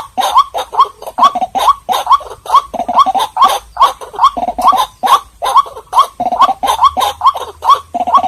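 White-breasted waterhen calling, a fast run of loud repeated croaking notes, about three a second, with no pause.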